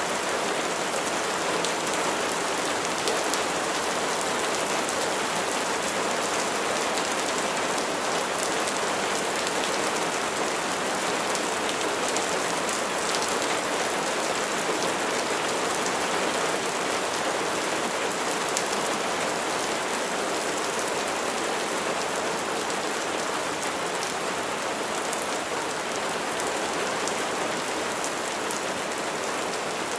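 Steady rain falling on a surface, a dense even patter of drops with no break.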